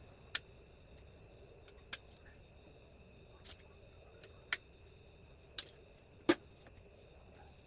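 Hand tools and loose hardware clinking on a go-kart chassis during teardown: five short, sharp metallic clicks spaced irregularly a second or more apart, over a faint steady high whine.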